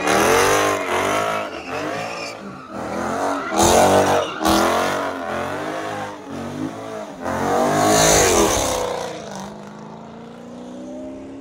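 A car doing donuts: its engine revs up and down over and over, with tires squealing, loudest about four and eight seconds in. Near the end it settles to a quieter, steadier engine note.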